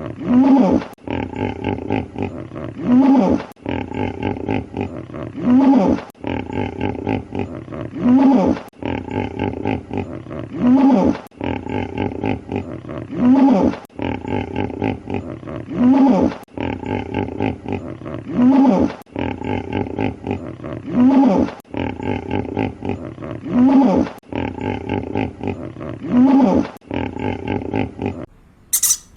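An animal's call repeated in an identical pattern about every two and a half seconds, a steady low droning stretch followed by a louder call that rises and falls in pitch, like one recording looped. It stops suddenly near the end.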